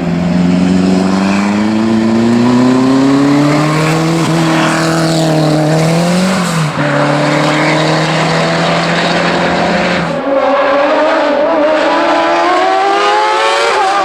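Race car engine accelerating hard, its pitch climbing through each gear and dropping at the shifts. About ten seconds in the sound changes abruptly to another car running at higher revs.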